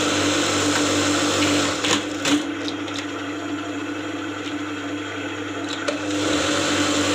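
Juki industrial buttonhole machine running and stitching, a steady mechanical whirr with a hum. It is louder for the first two seconds, eases off with a couple of knocks, then picks up again near the end.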